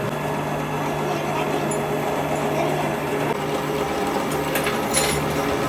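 A workshop machine running with a steady hum, with a couple of short metallic ticks near the end.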